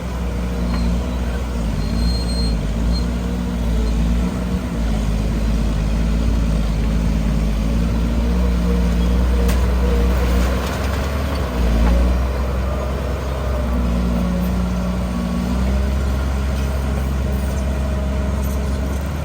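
Heavy diesel engine of earthmoving machinery running steadily, with a low drone and small shifts in pitch. A single sharp knock comes about nine and a half seconds in.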